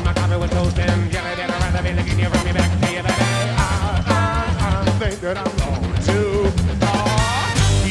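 Live rock band playing, with busy drumming, bass and guitar under a sung vocal line.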